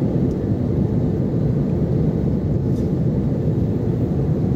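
Steady low rumble inside the passenger cabin of an Airbus A330-300 airliner on its descent: engine and airflow noise.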